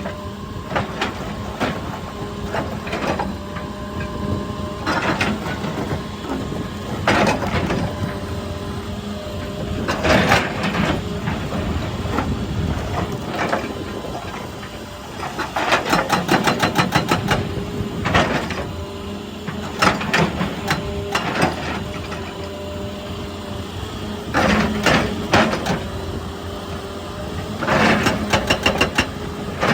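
Excavator's diesel engine running steadily while it works rock, with bursts of rapid clattering knocks, thickest about halfway through and again near the end.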